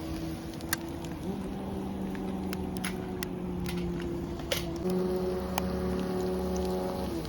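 Scattered sharp pops and crackles, typical of karaage frying in hot oil over a campfire, over a steady hum of held tones that shifts pitch in steps twice.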